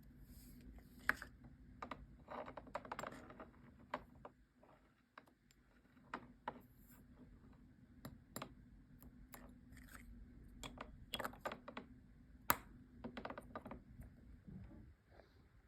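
Perfume box and bottle packaging being handled by hand: an irregular run of small clicks, taps and brief crinkling. Two clicks stand out as louder, one about a second in and one a few seconds before the end.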